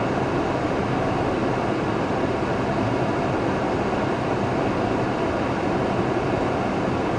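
Steady noise of a car driving through a storm, with tyre and rain noise blending into one even roar and no breaks or rhythm.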